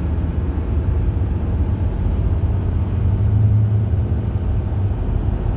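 Bus engine and road noise heard from inside the cabin: a steady low drone that swells a little about halfway through.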